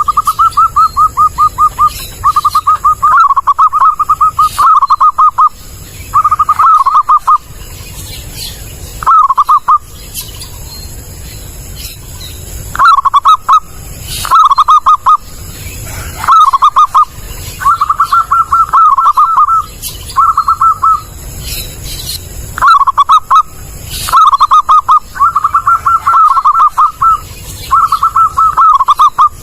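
Zebra dove (perkutut) singing, loud and clear: repeated phrases of quick staccato coo notes, each phrase about a second long and separated by short pauses.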